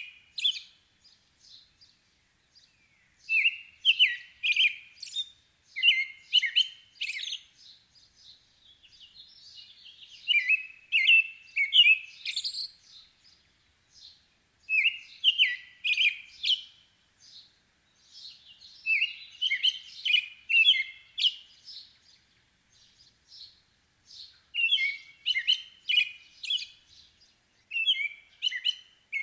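Songbird singing: a short phrase of several quick, high notes, repeated about every three to four seconds, with fainter chirps between the phrases.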